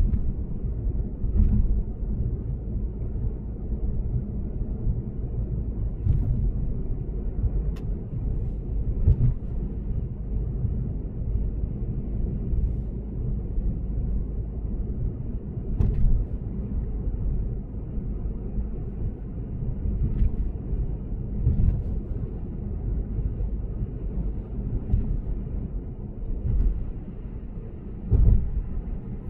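Lexus GS450h cruising at expressway speed: a steady low road and tyre rumble, with a few brief thumps scattered through it.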